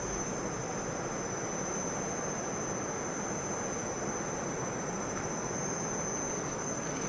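Continuous high-pitched trill of crickets over the steady rush of Thomson's Falls, unchanging throughout.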